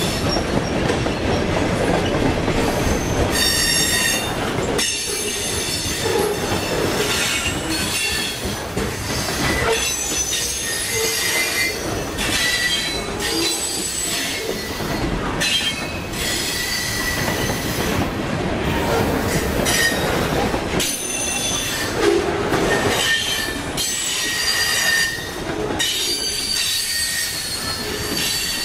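Freight cars rolling past on the rails with a steady rumble, their wheels squealing now and then in high ringing tones that come and go.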